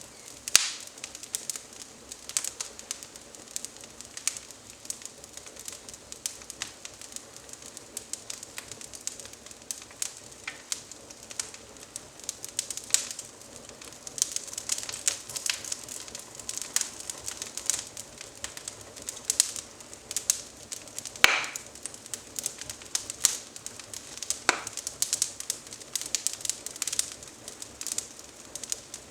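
Twig fire in a wood-burning fireplace crackling, with irregular small snaps and pops throughout and a few louder snaps in the last third.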